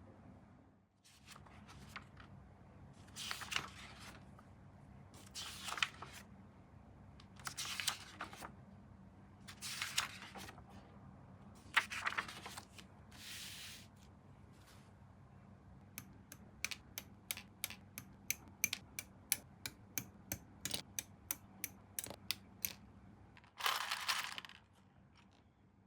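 Hand work on plastic model-kit parts: short scraping strokes about every two seconds, then a quick run of small sharp clicks, about four a second, and one last longer scrape near the end.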